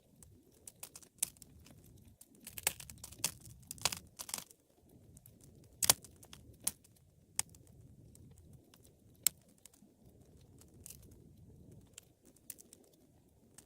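Wood fire burning: sharp crackles and pops at irregular intervals over a low rumble of the flames, with the loudest pops about six and nine seconds in.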